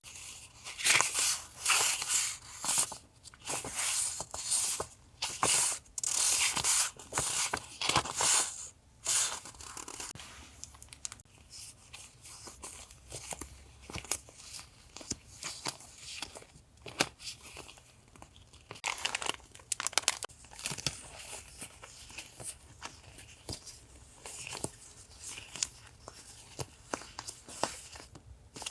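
Paper and plastic packaging crinkling and rustling as stickers and paper goods from a random box are unwrapped and handled. The rustling is densest for the first several seconds, then comes in softer, scattered handfuls with small ticks and taps, with one louder flurry about two-thirds of the way through.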